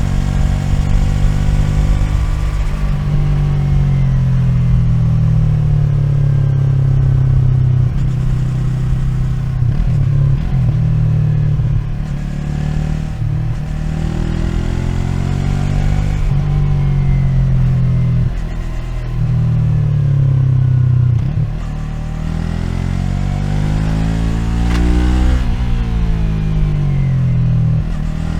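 2020 Yamaha MT-03's 321 cc parallel-twin engine heard from on the bike, rising in pitch as it pulls and falling as the throttle is eased, over and over, with brief drops at gear changes and a long climb near the end.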